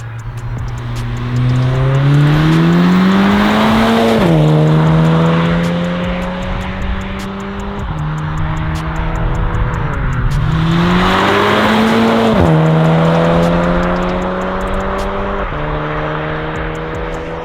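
Seat Leon Cupra 300 ST's turbocharged four-cylinder engine through a straight-pipe valve exhaust, accelerating hard. The revs rise, then fall sharply at each upshift, in two pulls with steadier running between them.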